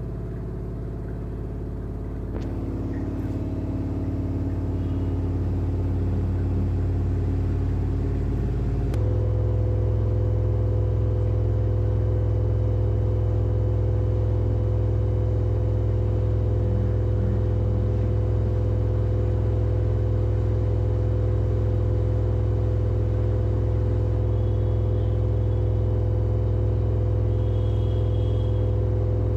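LG FHV1408ZWP front-loading washing machine spinning at high speed on its 1200 rpm spin cycle: a steady motor and drum hum that grows louder over the first few seconds, then changes abruptly about nine seconds in to a louder, steady tone.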